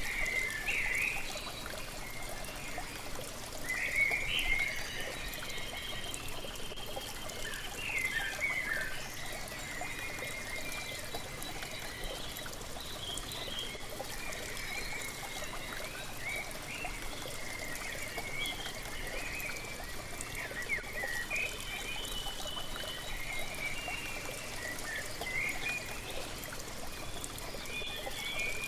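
Waterfall splashing in a steady rush, with small birds chirping and calling over it again and again.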